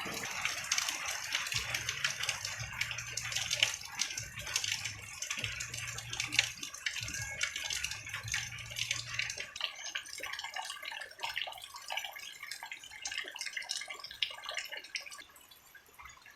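Heavy rain falling, a dense patter with drips and splashes. A low steady hum comes and goes through the first half, and the rain thins out near the end.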